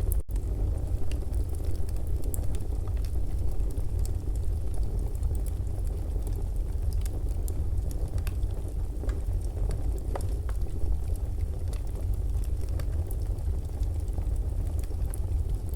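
Fireplace crackling: a steady low rumble of the fire with scattered sharp pops and crackles throughout. A split-second gap in the sound just after the start.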